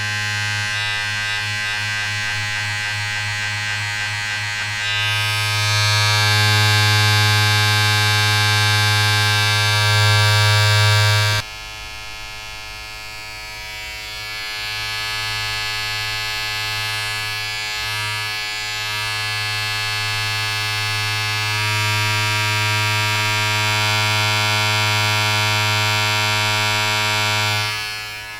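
A small electric appliance buzzing steadily: a low, strong hum with a bright hiss above it. It gets louder and brighter about five seconds in, drops abruptly about eleven and a half seconds in, builds back up, and falls away just before the end.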